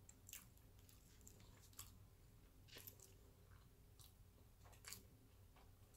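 Faint closed-mouth chewing of a mouthful of salmon nigiri, with about five soft wet mouth clicks spread through it.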